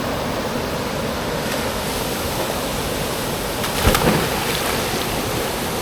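Waterfall rushing steadily, with a brief louder burst about four seconds in.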